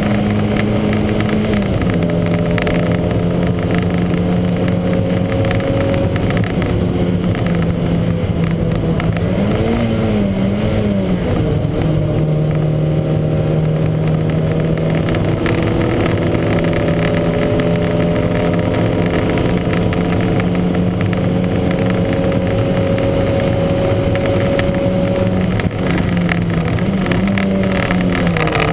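Lancia Montecarlo race car's engine running hard at high revs, misfiring. Its pitch drops about a second and a half in, dips and recovers around ten seconds, climbs slowly through the middle, and drops again near the end.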